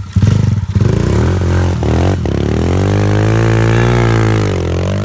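Thumpstar 110 pit bike's small four-stroke single engine revving hard, with a few knocks in the first two seconds. It climbs to a high rev that holds, then eases off near the end.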